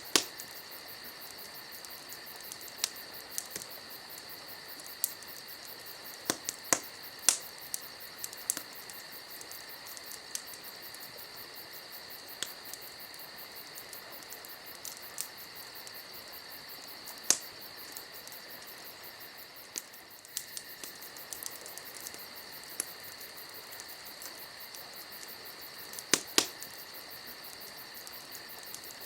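Wood fire crackling, with sharp irregular pops and snaps, a few close together, over a steady high-pitched chirring tone.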